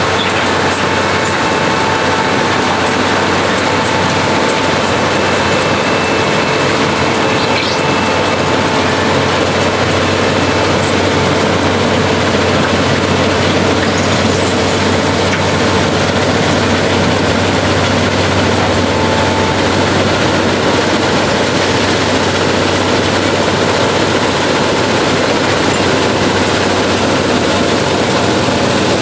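Railroad ballast cleaner at work: a loud, steady mechanical din with a low hum underneath.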